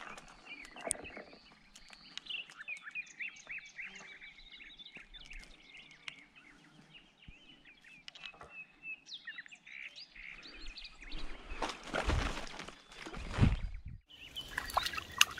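Small birds chirping and singing in quick, high, repeated notes. About two-thirds of the way in, a few seconds of loud rumbling noise, then a few sharp clicks near the end.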